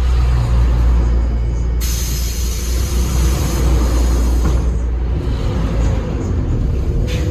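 Hyundai New Super Aerocity CNG city bus engine running with a steady low rumble. About two seconds in, compressed air hisses out loudly for about three seconds.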